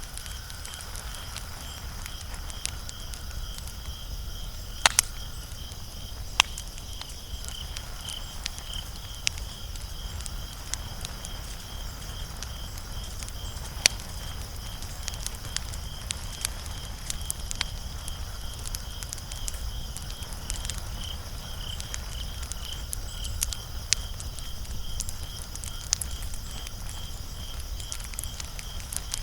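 Wood fire crackling, with scattered sharp pops, the loudest about five seconds in and near fourteen seconds, over a low steady rumble. A steady, high, pulsing trill runs underneath.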